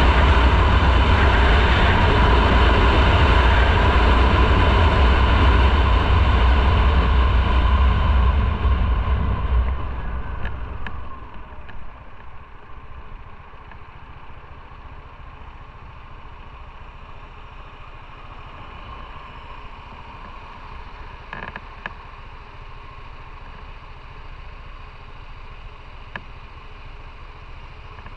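Motorcycle under way, loud with engine and rushing noise, easing off about ten seconds in and settling to a much quieter, steady idle.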